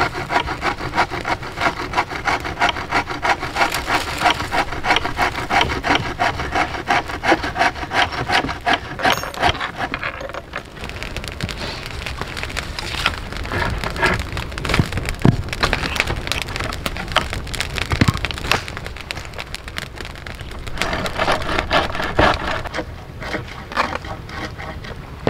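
Hand saw cutting wood in steady back-and-forth strokes, the blade ringing most strongly in the first half and again near the end.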